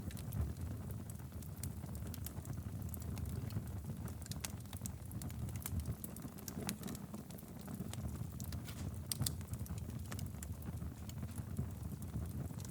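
Wood fire burning steadily in a fireplace: a low rumble of the flames with frequent irregular crackles and pops.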